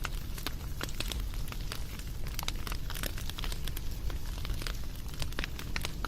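Wood fire crackling: a dense, irregular run of sharp pops and snaps, several a second, over a steady low rumble.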